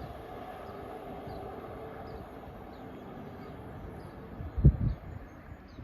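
Quiet trackside background noise, with a faint steady hum that fades out about two seconds in. Near the end there is a brief low thump.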